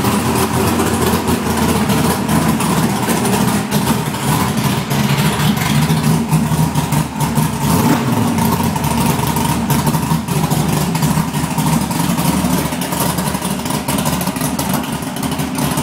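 Brand-new small-block Chevy V8 running steadily, a freshly built engine just after its first start.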